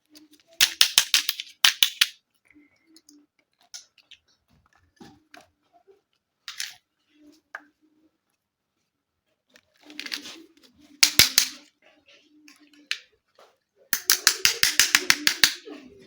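Small plastic toy pieces of a miniature kitchen play set clicking and clattering as they are handled. The clicking comes in three quick runs, near the start, in the middle and near the end, with a few single clicks between them.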